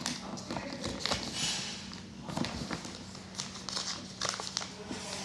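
Sheet of paper rustling and being creased by hand as a paper airplane's flap is folded down, with scattered soft ticks.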